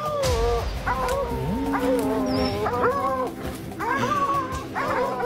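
A dog whining and whimpering, a run of repeated high, wavering cries.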